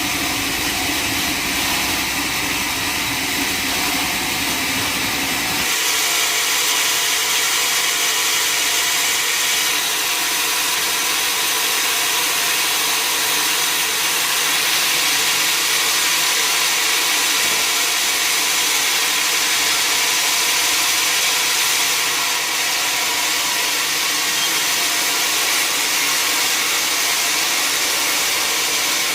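Sawmill saw cutting through a log, a steady loud noise of blade in wood. A low engine drone underneath drops away about six seconds in.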